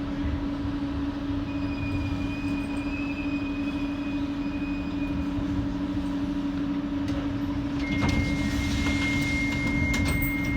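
Docklands Light Railway electric train running, heard from inside the carriage: a steady low hum over wheel and track rumble. In the last few seconds a high steady whistle and louder rumble come in as the train approaches West India Quay station.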